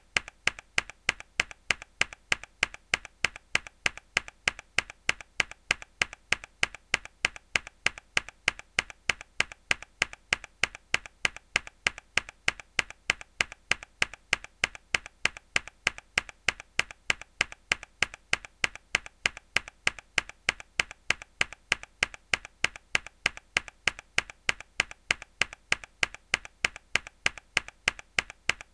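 A mechanical keyboard key pressed hard, again and again in an even rhythm of about four sharp clicks a second.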